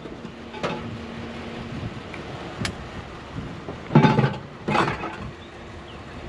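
Clicks and knocks of a discarded microwave being handled and its buttons tried, with two louder clunks about four and five seconds in.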